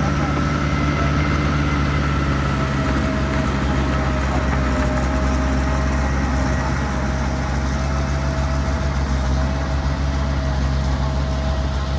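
Heavy diesel engine of earthmoving equipment running steadily at a constant speed, with a faint steady whine above the low hum.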